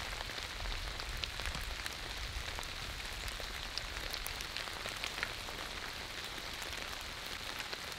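Steady rain falling: a constant hiss with many scattered single drop hits.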